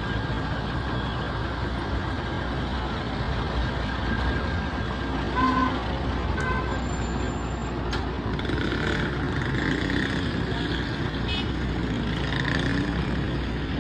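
Steady road traffic noise from passing vehicles, with two short high tones about a second apart midway through.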